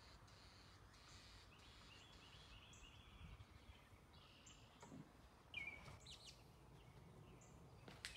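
Near silence: faint background with a few distant bird chirps.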